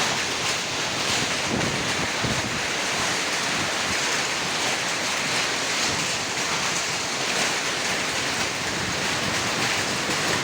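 Heavy rain and hail pouring down in a strong wind: a dense, steady rushing noise, with gusts buffeting the microphone.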